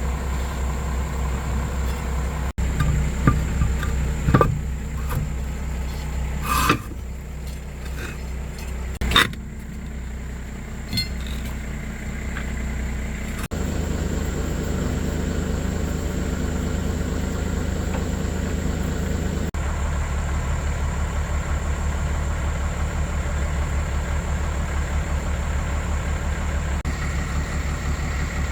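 A heavy engine running steadily, with four sharp metallic clinks in the first ten seconds.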